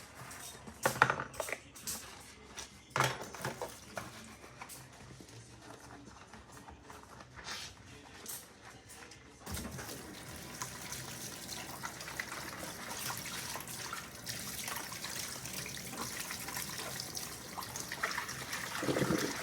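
A few sharp knocks and taps, then from about halfway a steady rushing noise like running water.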